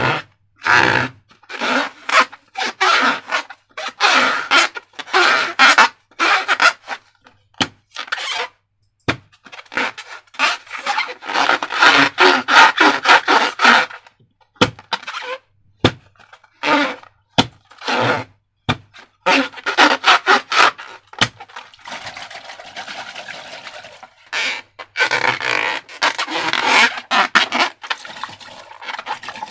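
Slime being squeezed and worked by hand, making irregular noisy squishes separated by short pauses.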